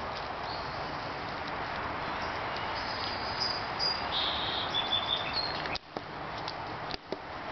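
Steady outdoor background noise with a bird singing a few short, high whistled notes around the middle.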